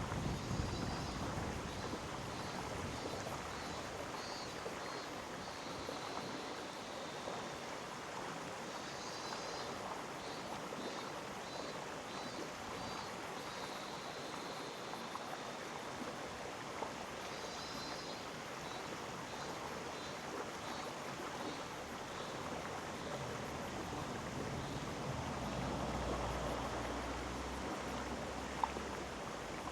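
Mountain stream in a rocky gorge, a steady rush of flowing water. Faint, rapidly repeated high chirps come in three short spells, and there is a low rumble late on.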